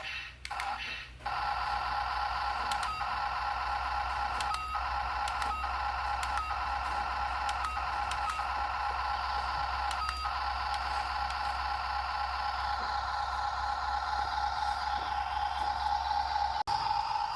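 Small electric motor and gearbox of a toy RC truck running with a steady whine, with faint ticks about once a second; it cuts out briefly near the start and again shortly before the end.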